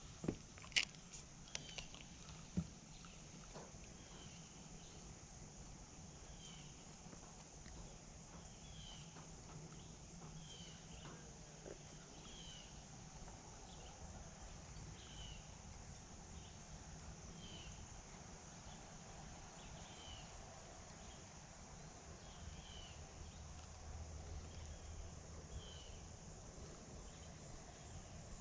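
Faint outdoor ambience: a bird repeating one short chirp about every two seconds over a steady high insect drone, with a few sharp clicks in the first few seconds.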